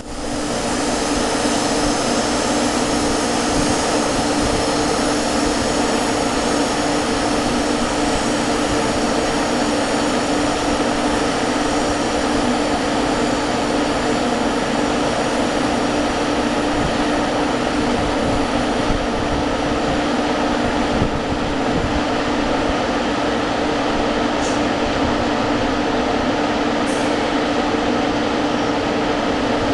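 A JR Kyushu 817 series six-car electric multiple unit, a steady loud rail rumble with a constant low hum running through it. Two faint short high-pitched ticks come near the end.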